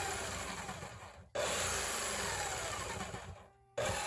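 Jigsaw cutting through floor wood in short runs: it cuts off about a second in, starts again at once, dies away near the end and starts once more. Its pitch falls as each run goes on.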